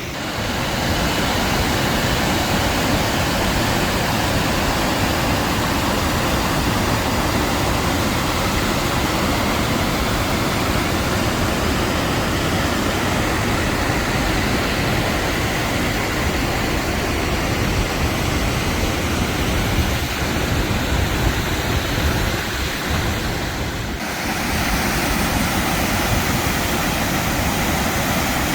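Waterfall on the Sheep River pouring steadily: a dense, even rush of water. The sound dips briefly and shifts slightly about 24 seconds in.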